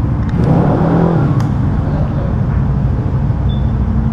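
An engine running with a steady low drone, with a short wavering rise and fall in pitch about half a second in.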